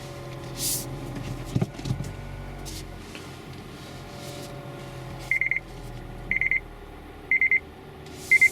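Mazda CX-3 engine idling, heard from inside the cabin, with two dull knocks a little after one and a half seconds in: the front-suspension knock that the owner suspects comes from the coil springs. From about five seconds in, a high warning beep sounds about once a second, the car's rear cross traffic alert.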